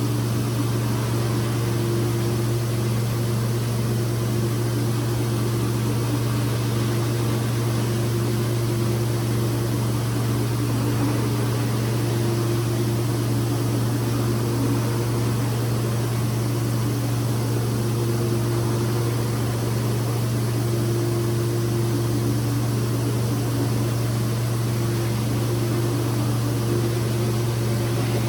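Carpet-cleaning machine running steadily, a constant low hum with a hiss of air and water over it, as from hot-water extraction equipment at work.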